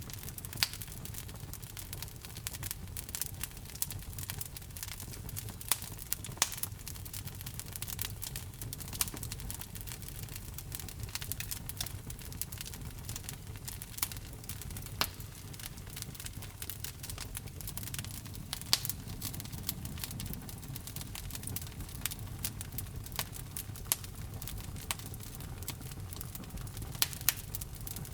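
Wood fire burning in a fireplace: a steady low rumble of flame with frequent irregular crackles and occasional louder pops.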